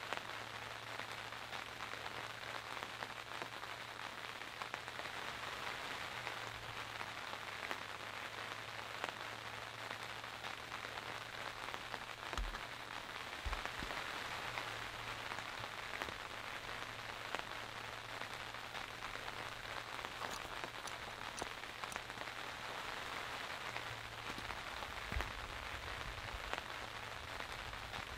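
Steady rain falling on the fabric of a dome tent, heard from inside the tent.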